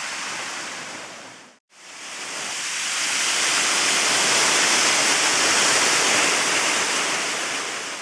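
Waterfall rushing in a steady roar of falling water. It cuts out briefly about a second and a half in, comes back louder, and fades near the end.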